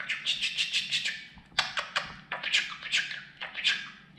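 Budgerigar chattering: fast, clicky warbling in several bursts with short breaks, the budgie's own chatter between its learned talking phrases.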